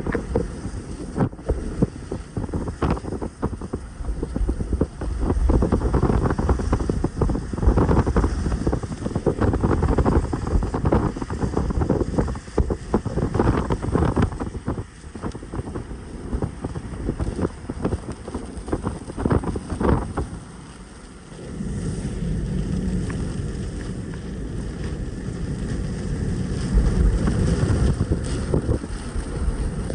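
Strong, gusty wind buffeting the microphone with crackling rumbles. It eases briefly about two-thirds of the way in, then settles into a steadier rush.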